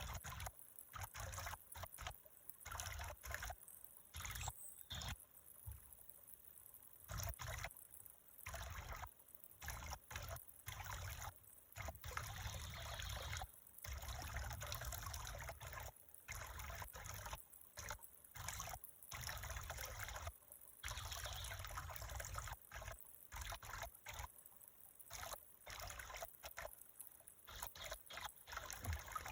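Water trickling, the sound cutting in and out irregularly every fraction of a second to a second or so.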